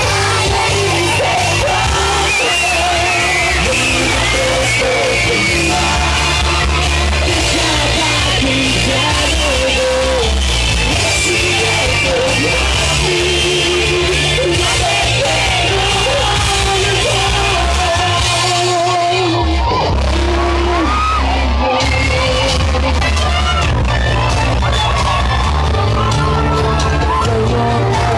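Loud electronic dance music with a heavy sustained bass over a venue's sound system, with a crowd shouting and singing along. About two-thirds of the way through the bass drops out briefly, then comes back in.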